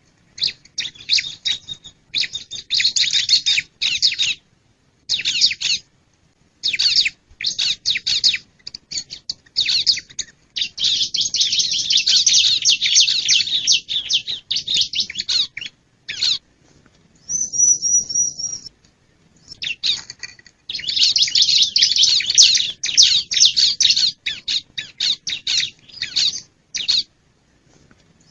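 Bar-winged prinia (ciblek) singing in loud, fast chattering phrases separated by short pauses. About two-thirds of the way through comes a single high, rapid, even trill.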